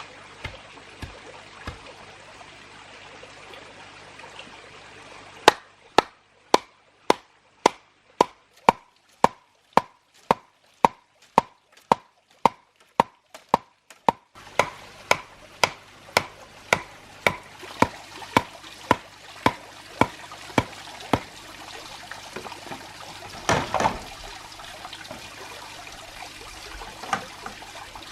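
A long, even run of sharp knocks, about two a second, starting a few seconds in and stopping about three-quarters through, over a steady trickling or hissing background.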